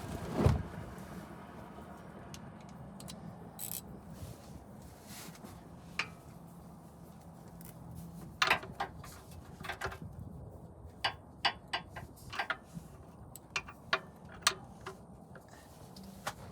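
Scattered sharp metallic clicks and clinks of a wrench working a tight 14 mm bolt loose, with a quick run of them near the end.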